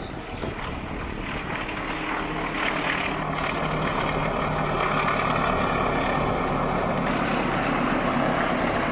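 Diesel-electric locomotive hauling a passenger train as it approaches and passes. The engine drone and the rumble of the wheels on the rails grow louder over the first few seconds, then hold steady.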